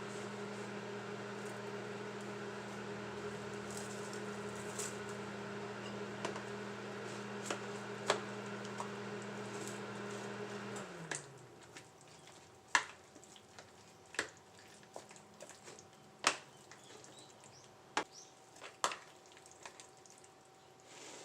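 Microwave oven running with a steady hum, with a few pops from the food cooking inside. About halfway through the hum winds down and stops as the oven finishes. Scattered sharp pops and ticks follow.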